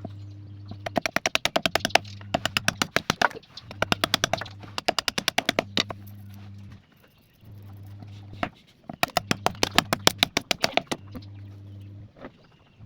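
Rapid runs of sharp tapping, about ten taps a second in bursts of one to two seconds, over a steady low hum.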